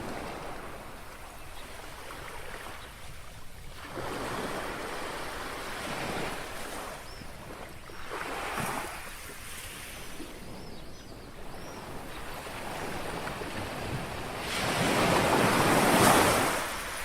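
Small waves of a calm sea lapping on the shore: a steady wash of water that swells several times, the loudest and longest wash near the end.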